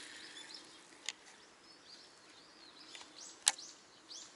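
Small birds chirping outdoors, with short arching calls scattered through, and two sharp clicks: one about a second in and a louder one past the three-second mark.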